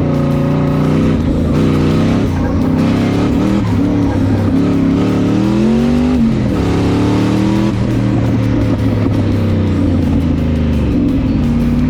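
Twin-turbo 5.3-litre LS V8 in a BMW E36 running hard, its pitch climbing and dropping back several times as the throttle is worked, then holding steadier near the end.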